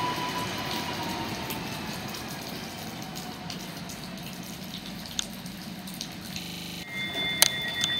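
Electric passenger train slowing to a stop at a platform: rolling noise and a faint high whine that sinks a little in pitch and dies away as it slows. Near the end a steady high electronic beep comes on, with a sharp click.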